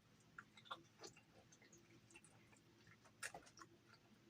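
Faint chewing and wet mouth clicks from a person eating, a handful of soft irregular clicks with the loudest a little past three seconds in.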